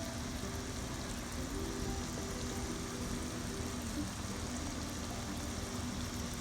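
Food frying in a pan with a steady sizzle, under soft background music.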